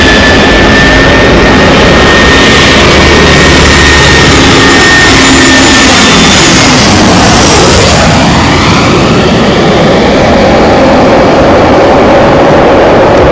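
Jet airliner passing close by, its engines very loud. A high whine fades out about six seconds in, and the tone sweeps down and then back up around the middle as the aircraft goes past.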